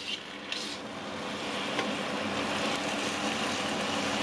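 Wood ear mushroom and vegetable stir-fry sizzling steadily in a wok as the added water and sauce cook down. A couple of brief spatula scrapes on the wok come right at the start, and the sizzle swells over the first second or two, then holds.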